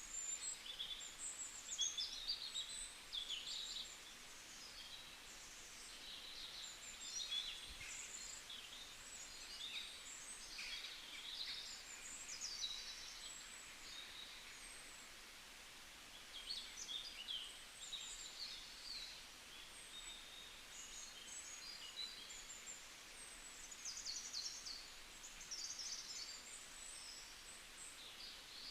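Birds chirping and twittering in quick, overlapping calls, one after another, over a faint steady hiss.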